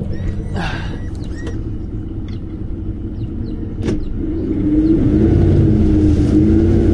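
Truck engine running, then revving up about four seconds in and holding at higher revs while it strains to move the boat trailer, with a few light clicks and squeaks early on.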